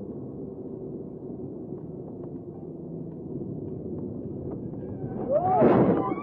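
Steady, muffled road and engine noise of a car driving, recorded in narrow band by an in-car dashcam. About five seconds in, a loud sudden burst with a person's shouted cry, rising and falling in pitch.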